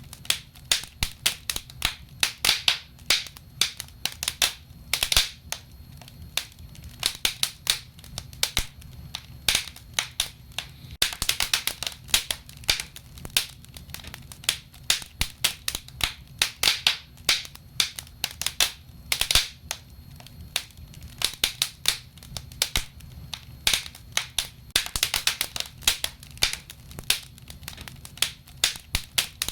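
Wood fire burning in a fireplace: irregular crackles and pops of burning logs, some in quick clusters, over a low steady rumble of the flames.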